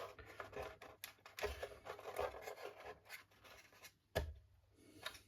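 Faint scraping and light clicks of small prop shaft box parts being handled and fitted against a model boat hull, with one sharper tap about four seconds in.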